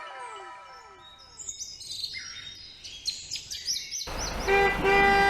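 Birds chirping, with a run of falling whistles fading out at the start. About four seconds in, a vehicle horn sounds twice: a short blast, then a longer one.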